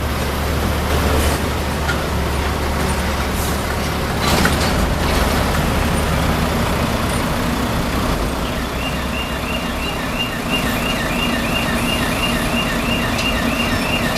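Heavy truck running with a steady low rumble, a single knock about four seconds in. About two-thirds of the way through, a rapid electronic warning beeper starts, two-tone chirps about three a second, while the deep rumble eases.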